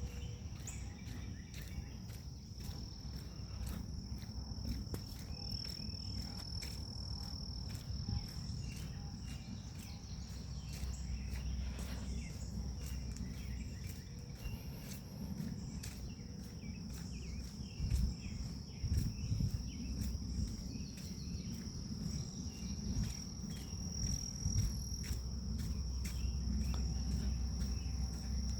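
Grass insects chirring in a steady, continuous high-pitched drone. Underneath it runs a low rumble with a few louder thumps about two-thirds of the way through.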